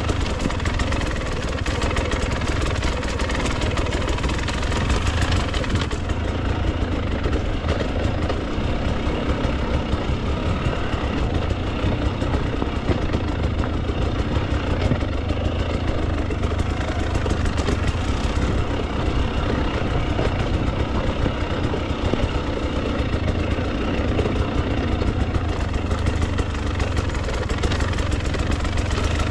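Husqvarna TE300 two-stroke enduro dirt bike engine running steadily at low revs, with no sharp revving.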